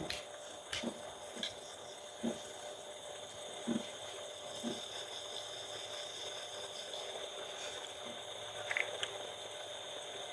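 Eating sounds: soft chewing with a few short mouth clicks and soft low knocks, spaced irregularly, over a steady faint background hum.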